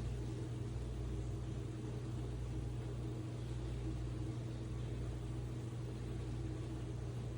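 iRobot Roomba Combo j7+ robot vacuum running, a steady low motor hum with a faint hiss over it.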